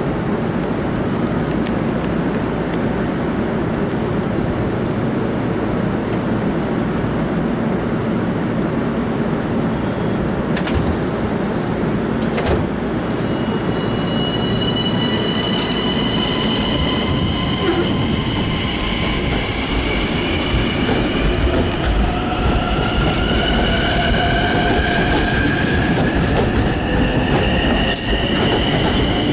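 Long Island Rail Road train rolling along the track, with a steady rumble and rattle of the wheels. From about halfway in, high whining tones join, rising slowly in pitch near the end.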